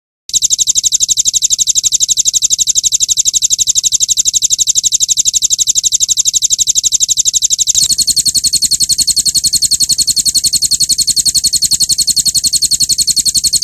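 Recorded songbird 'roll tembak' song: a rapid, unbroken rattling trill of sharp, high-pitched notes. The trill shifts to a slightly different note pattern about eight seconds in.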